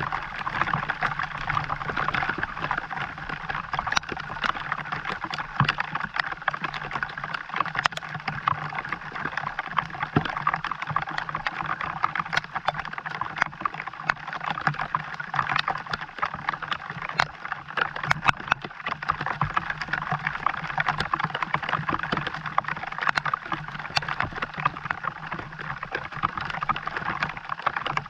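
Steady rain pattering, a continuous dense spatter of many small drop hits.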